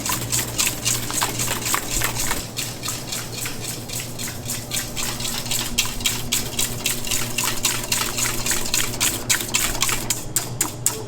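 A utensil stirring a mixture in a bowl with rapid, dense clicking strokes, which settle into an even beat of about four or five ticks a second near the end, over a low steady hum.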